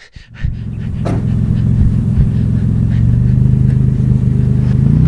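Car engine running steadily, picked up close, with a low, even hum that sets in about half a second in.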